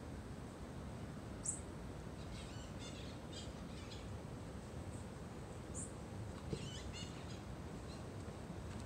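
Birds chirping in short runs of quick high notes, with two brief sharp high calls, about a second and a half in and near six seconds, over a steady outdoor background hiss.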